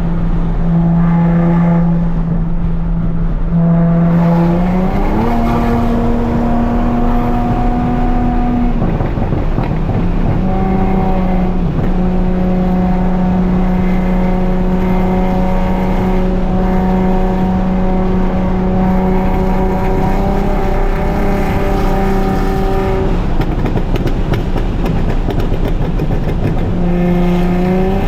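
Straight-piped Nissan 370Z's 3.7-litre V6 exhaust running under way: pitch climbs as it accelerates about five seconds in, drops back near nine seconds, holds steady at cruise, and climbs again near the end.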